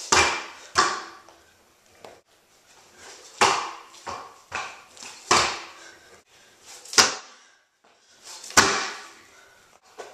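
Stunt scooter hitting the ground again and again, a clattering knock every second or two.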